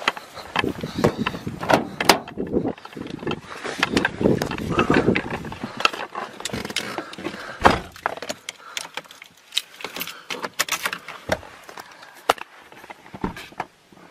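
Irregular clicks, knocks and rustling of gear being handled, busiest in the first half and sparser towards the end.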